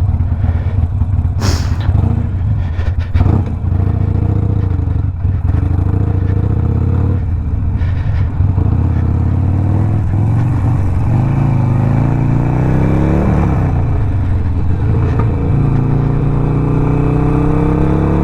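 Harley-Davidson Sportster Iron 1200's air-cooled V-twin with a Two Brothers 2-into-1 exhaust and Stage 1 tune, running steadily at low revs, then pulling away: the revs climb about ten seconds in, drop sharply at a gear change, and climb again near the end.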